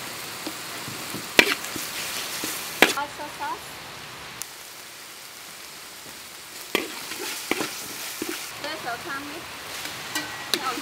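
Seasoning paste sizzling as it fries in oil in a metal wok, with a metal spoon stirring and scraping it. Several sharp clinks sound where the spoon knocks against the wok.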